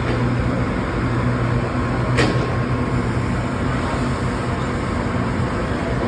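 Steady low machinery hum of a train standing at a station, with a single sharp click about two seconds in.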